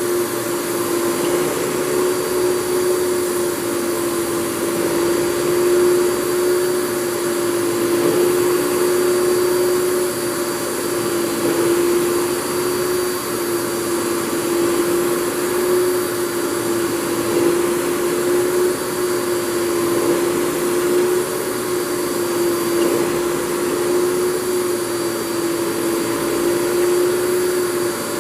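Fantom Thunderbolt FM239 canister vacuum cleaner's 10-amp motor running steadily: a continuous whine over a rushing hiss, its pitch rising and falling slightly now and then.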